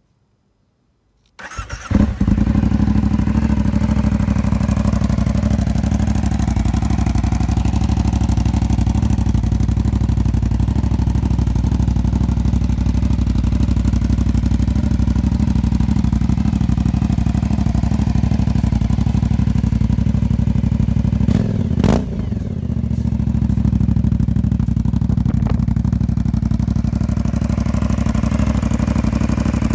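Aprilia Dorsoduro 900's 896 cc V-twin engine with an aftermarket Arrow exhaust starting up about a second and a half in, then idling steadily through the exhaust. About two-thirds of the way through the note dips briefly, with a few sharp clicks.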